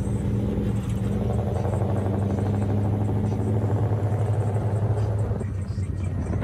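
Car engine droning steadily at a low, even pitch while driving, with road noise.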